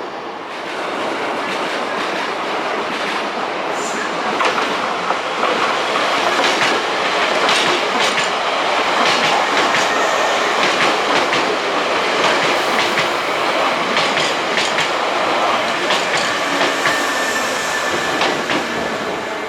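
Hankyu Kyoto Line electric train passing close by. Its wheels clack over rail joints in a run of sharp clicks, and the sound swells about half a second in and falls away at the end.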